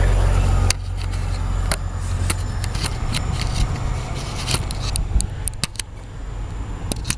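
1995 Mercury Sable engine running with a steady low hum, held down by a makeshift wire tie-down in place of a failed engine mount. The sound drops suddenly in level about a second in, and is followed by scattered sharp clicks and knocks.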